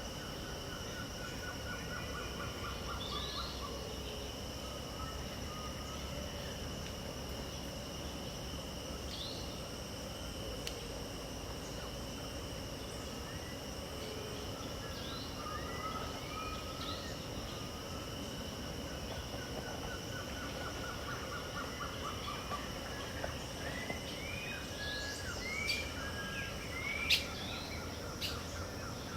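Several birds calling over a steady, high-pitched insect drone: short rising chirps, a rattling trill early on and again in the middle, and a few sharp, louder calls near the end.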